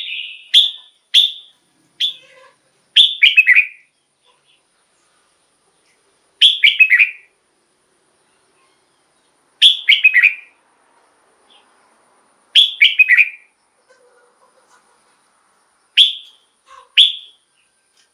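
Red-whiskered bulbul singing: a few short single notes, then brief bright phrases that slide down in pitch, each under a second, repeated about every three seconds with quiet gaps between.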